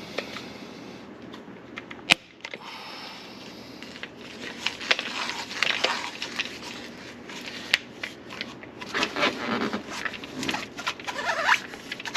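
Plastic drain pipe being cut by hand: after a sharp click about two seconds in, a run of irregular rasping strokes begins about halfway through and grows louder near the end.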